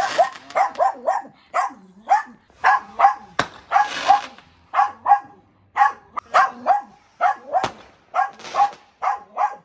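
A dog barking over and over in short, quick barks, about two to three a second, with a few brief hissing bursts among them.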